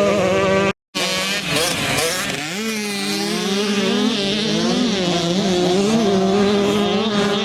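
Several dirt bike engines running and revving, their pitch rising and falling as riders work the throttle. The sound cuts out completely for a moment just under a second in.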